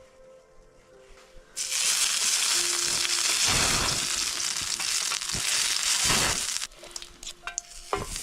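Food going into hot olive oil in a pan about a second and a half in and sizzling loudly, with a couple of low knocks in the pan; the sizzle drops back to a quieter fry near the end.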